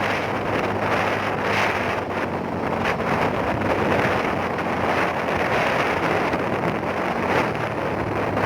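Wind rushing over the microphone on a moving motorcycle, with the engine's steady hum underneath.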